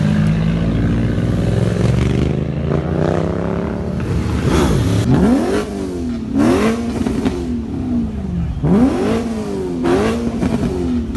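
A car engine running steadily, then revved in four quick blips from about halfway in, each rising sharply in pitch and falling back.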